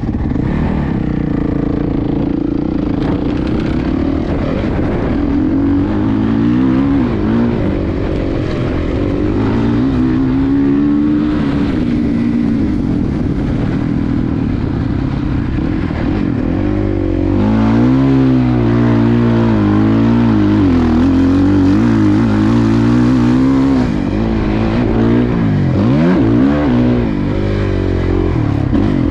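Suzuki motocross bike engine revving up and down as it is ridden around a dirt track, its pitch rising and falling continuously with the throttle.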